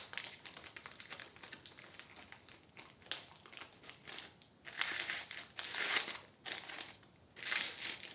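Foil crinkling in several irregular bursts as folded foil pieces threaded on a rod are spread open by hand.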